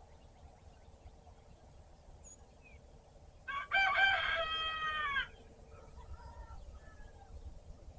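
A rooster crowing once, a single crow of nearly two seconds starting about halfway through, its pitch dropping at the end. Faint bird chirps follow, over a low background rumble.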